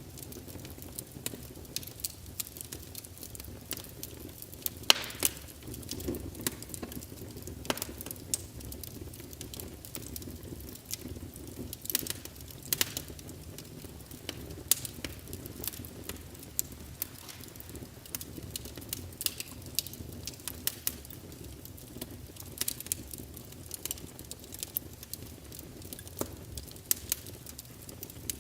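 Wood fire crackling in a fireplace: a steady low rumble of flame with irregular sharp pops and snaps, a few louder ones about five, twelve and thirteen seconds in.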